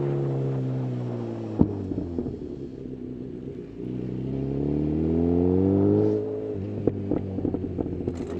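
Honda CB1000R inline-four through a full-system Black Widow exhaust. The revs fall off as the throttle closes, with a sharp pop about a second and a half in and crackles while it runs low. It then pulls up through the revs for a couple of seconds and drops off again into more crackles and pops.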